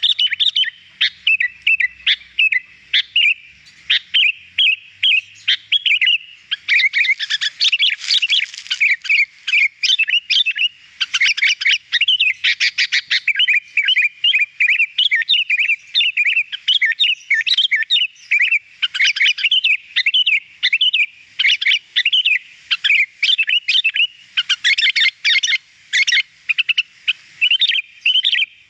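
Sooty-headed bulbul (kutilang) singing continuously: a fast, unbroken stream of chirps and short whistled notes, with denser, busier runs around a quarter of the way in, near the middle and near the end.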